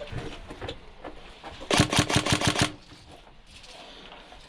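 Airsoft gun firing a rapid string of about eight shots in a second, a little under two seconds in, with fainter scattered clicks of gunfire before it.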